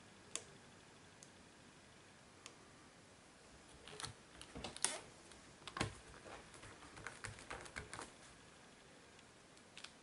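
Light clicks and taps of a clear stamp being positioned in a Misti stamping tool: a single click just after the start, then a busy run of small clicks between about four and eight seconds in.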